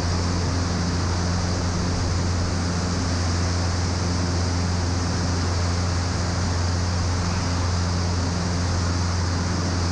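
Twin piston engines of a Piper PA-34 Seneca running at climb power just after takeoff, heard inside the cockpit: a steady low drone with a few steady tones above it and a constant airflow hiss.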